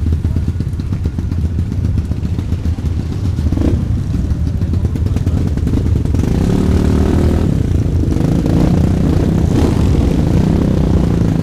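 Supermoto motorcycle engine running under way, getting louder and higher in pitch from about six seconds in as it is revved up.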